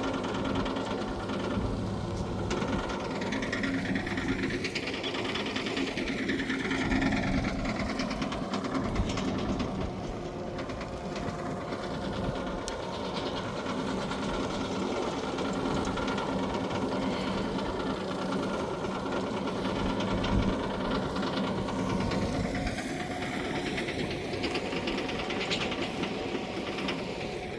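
Tractor-driven compost turner at work: a steady engine note under a dense, fast mechanical clatter from the turner's rotor working through a compost windrow.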